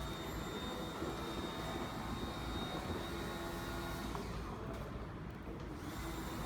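A steady machine hum with a faint constant high-pitched whine.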